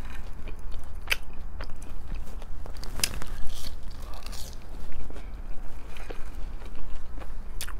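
Close-miked chewing and biting of fried food, chicken fingers and crinkle-cut fries, with scattered crunches; the sharpest crunch comes about three seconds in. A low steady hum runs underneath.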